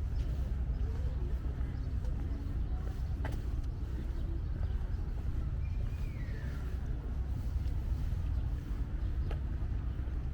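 Town street ambience with a steady low rumble, a few faint clicks and a brief falling high tone near the middle.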